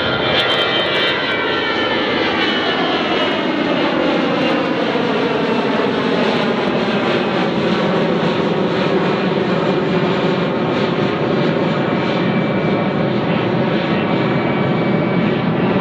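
Jet airliner passing close by, its engines loud and steady, with tones that slide downward in pitch over the first several seconds as it goes past.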